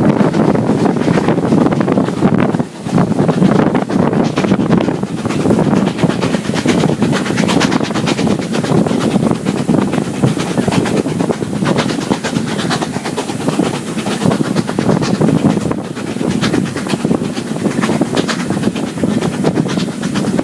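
Passenger train carriage running at speed, its wheels clattering on the rails, with wind buffeting the microphone held out of the carriage window.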